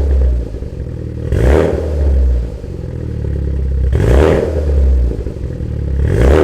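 Mitsubishi Lancer Evolution X GSR's turbocharged 2.0-litre four-cylinder revving through a 3-inch exhaust: a steady low rumble with three rev swells about two seconds apart.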